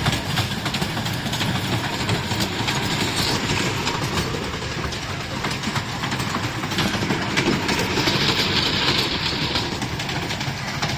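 Fairground toy train ride running, a steady rumble with many small clicks and clatters from the wheels and cars. A brighter hiss swells up twice, briefly about three seconds in and again for about a second and a half near the end.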